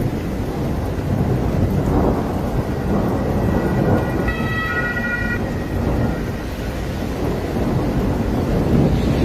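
Thunder rumbling continuously, swelling and fading in rolls, over rain. A short steady siren-like tone sounds a few seconds in.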